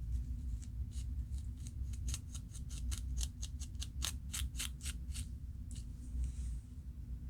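Scalp being scratched to loosen dandruff flakes: a quick run of crisp, sharp scratching strokes, about four a second, bunched in the middle.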